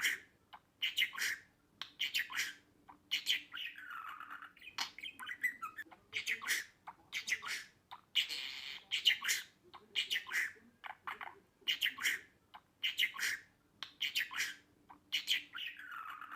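Budgerigar chattering in quick runs of short chirps and squawks, with a few sliding whistled calls. The same stretch of calls repeats about every twelve seconds, as a looped recording.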